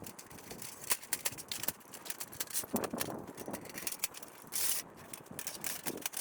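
Folding sheet-metal Coleman camp oven being assembled: a run of light metallic clicks, knocks and rattles, with a louder scrape about four and a half seconds in.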